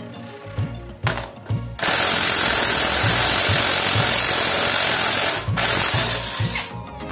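Background music with a steady beat, drowned from about two seconds in until near the end by a loud, even hissing rush of workshop tool noise, with a brief break about five and a half seconds in.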